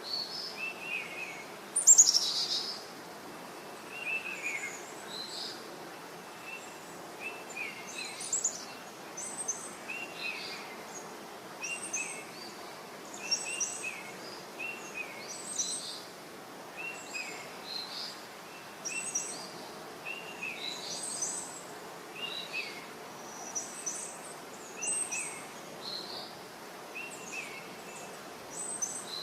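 Several birds chirping and calling, short calls coming every second or so over a steady background hiss. About two seconds in, one loud call sweeps downward in pitch.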